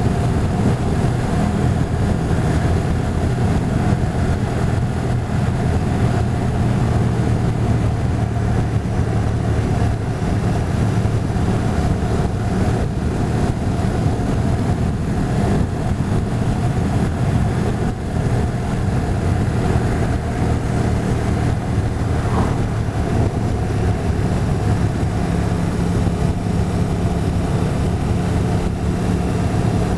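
Motorcycle engine running steadily on the move, under a steady rushing noise.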